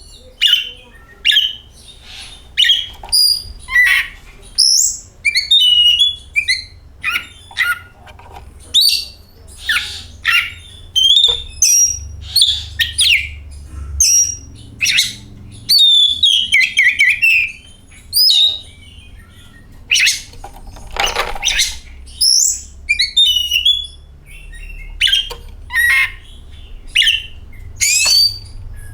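Oriental magpie-robin (kacer poci) singing: a quick, steady run of short, varied whistled phrases mixed with harsher notes, with one rougher, louder call near the middle. A faint low hum runs underneath.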